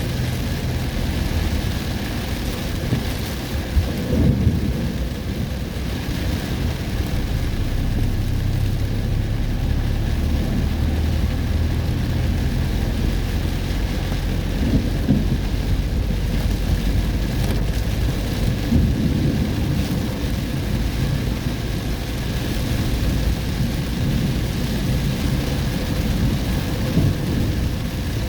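Heavy summer-storm rain pouring steadily over a deep continuous rumble, with a few brief louder swells in the low rumble.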